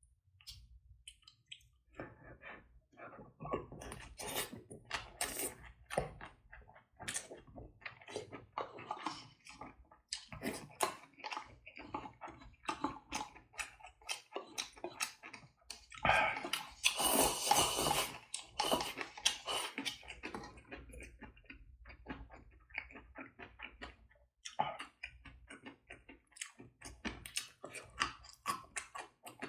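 Close-miked chewing and mouth sounds of someone eating, an irregular run of wet clicks and crunches, with a louder, denser stretch of crackling for about four seconds just past the middle.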